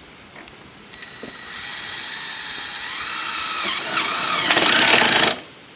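Screw gun driving a screw through the metal roofing panel beside a rib, drawing the metal down tight. It runs about four seconds, getting louder, and cuts off suddenly as the screw seats.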